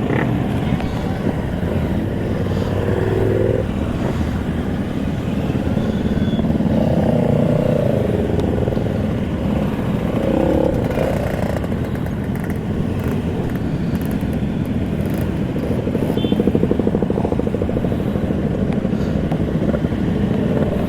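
Many motorcycles of a large convoy riding past, with several engines running at once in a steady mix of engine notes.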